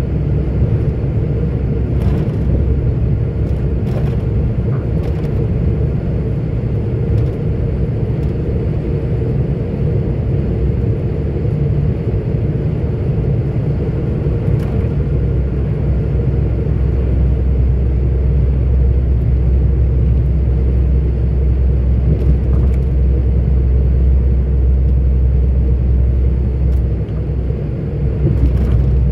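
Cab noise of a 44-ton articulated truck on the move: a steady, heavy engine and road rumble that deepens about halfway through, with a few faint clicks.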